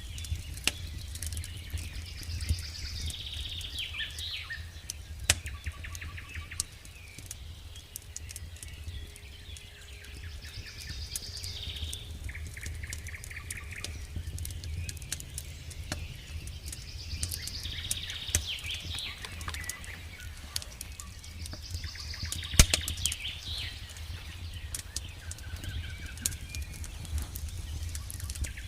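A wood campfire crackling, with frequent sharp snaps and one loud pop about three-quarters of the way through, while songbirds sing short repeated phrases. A low steady rumble runs underneath.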